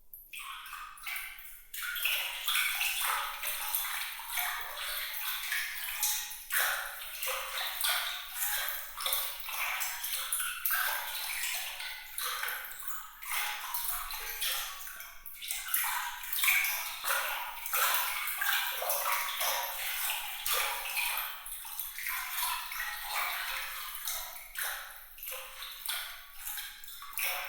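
Water trickling and splashing with many small, bright, high drips and plinks and no low rumble, a steady "glittering" water sound. It comes up out of a brief lull at the very start.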